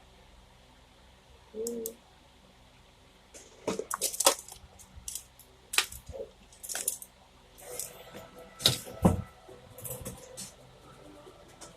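Irregular sharp clicks, clinks and knocks of small hard objects being handled, the loudest about four and nine seconds in, after a brief low hum about two seconds in.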